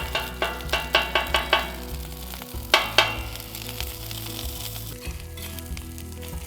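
Egg frying on a griddle, a steady sizzle. A quick run of about eight sharp clicks comes in the first second and a half, and two more come about three seconds in.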